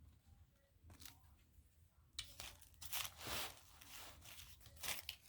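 Paper being handled: a few seconds of rustling and scraping that starts about two seconds in and is loudest just past the middle, after a faint tick.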